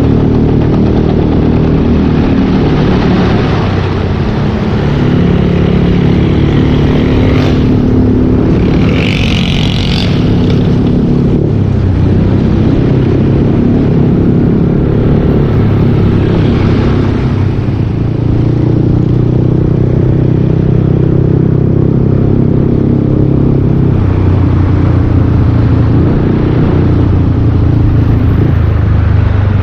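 Yamaha Aerox 155 scooter's single-cylinder engine running through a full Yoshimura exhaust while riding, its pitch rising and falling with the throttle. A short higher-pitched sound stands out above it about eight to ten seconds in.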